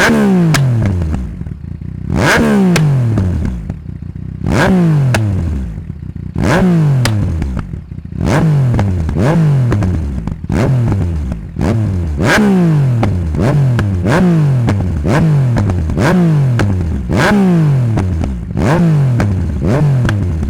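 Yamaha MT-09's inline three-cylinder engine through a straight-pipe de-cat exhaust, blipped about a dozen times, each rev rising sharply and falling away, one every second and a half to two seconds. Pops and crackles from the exhaust as the revs drop.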